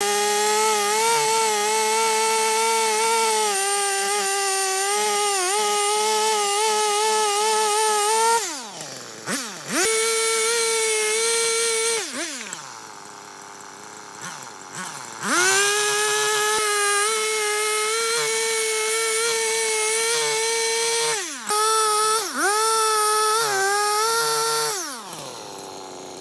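A power tool's motor running at a steady high pitch with slight wavering, spinning down to a stop about eight seconds in. It spins back up a few seconds later, dips twice briefly, and winds down again near the end.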